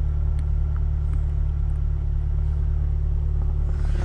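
Mazdaspeed 3's 2.3-litre turbocharged four-cylinder engine idling, a steady low hum.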